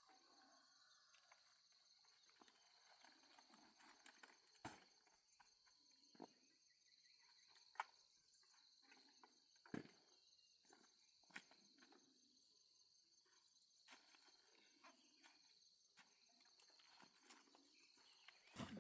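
Quiet steady, high-pitched chirring of crickets, with a few scattered sharp clicks and knocks, the loudest about eight and ten seconds in.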